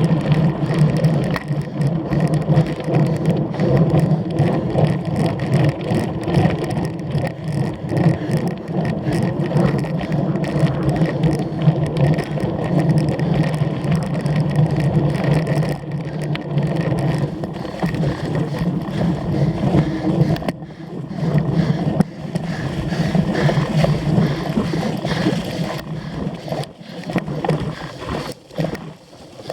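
Cyclocross bike being ridden hard over rough ground: a steady rush of tyre and riding noise with constant rattling from the bike. It eases briefly about twenty seconds in and again near the end.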